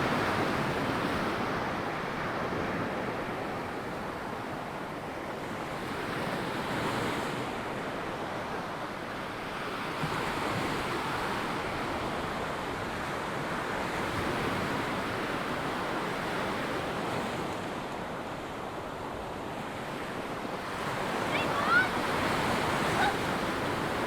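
Waves breaking and washing up a sandy beach in slow swells, with wind buffeting the microphone. A few faint, short, high sounds come near the end.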